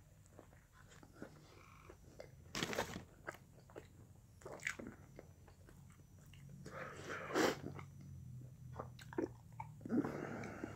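A person chewing a mouthful of chicken sandwich, with quiet wet mouth clicks and smacks and a few brief, louder noises between them. Near the end he takes another bite of the sandwich.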